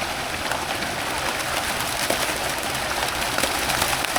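River water splashing steadily, churned by a crowd of feeding fish at the surface.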